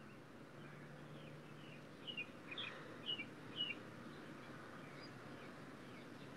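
A bird chirping faintly, a handful of short, quick chirps about two to four seconds in, over quiet background.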